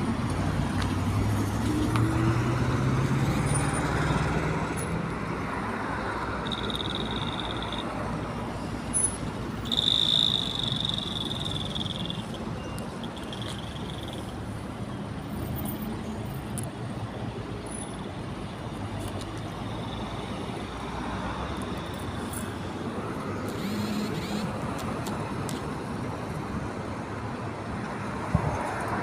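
Road traffic: a steady hum of passing vehicles, with an engine rising in pitch over the first few seconds. A few short, high whistle-like tones come about a quarter to a third of the way in.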